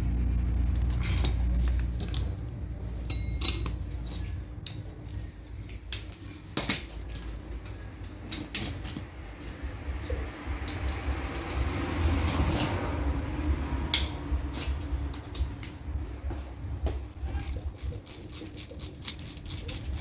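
Metal tools and car parts clinking and clattering now and then as they are handled. A low rumble fades out over the first couple of seconds.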